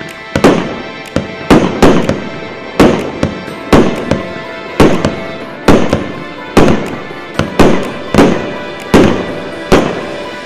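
A 1.25-inch, 320-shot fireworks cake (Super Salut 'Noble Platinum' CC8875) firing in quick succession. Sharp bangs come about once every half second to a second, each dying away quickly before the next.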